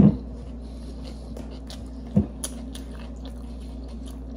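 Close-miked chewing of a sub sandwich, with small wet mouth clicks, over a steady low hum. A dull thump comes at the start and a smaller one about two seconds in.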